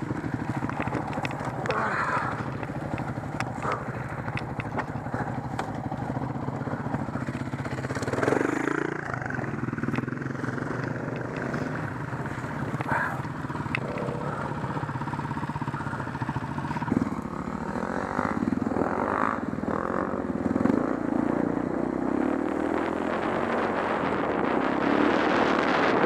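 Dirt bike engine idling steadily, with a brief rev about a third of the way in. Later it runs harder as the bike rides off over the track, louder and with more rushing noise toward the end.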